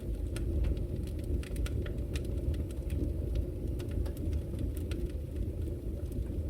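Wood fire burning in a fireplace: a steady low rumble of flames with frequent short, sharp crackles and pops scattered irregularly throughout.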